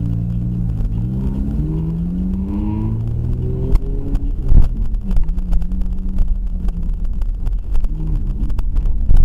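Car engine accelerating, its pitch rising over about three seconds. A loud thump comes about four and a half seconds in, then the engine runs at a steadier pitch among frequent small knocks and rattles, with another loud thump near the end.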